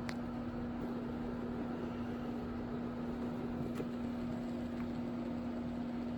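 Skateboard wheel spinning freely on its bearings, a steady whir with a few faint, irregular ticks: the ticking of a bad bearing, which feels rough, like a burr. A constant low hum sits underneath.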